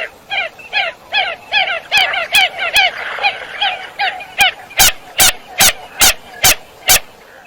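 Common coot calling: a fast series of short, downslurred nasal notes, about two to three a second. Past the middle these give way to a run of seven sharp clicks, about two a second.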